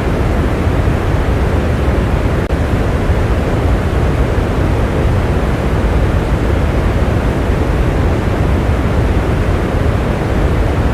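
Steady, heavy rain: a dense, even hiss, weighted toward a deep low rumble, with no individual drops standing out.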